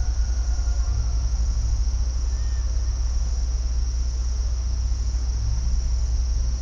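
Steady high-pitched chorus of insects, like crickets, over a constant low rumble, with a few faint, brief gliding calls early on.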